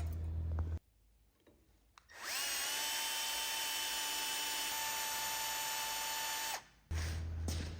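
A small electric power-tool motor spins up with a rising whine, runs steadily at a high pitch for about four seconds, then stops.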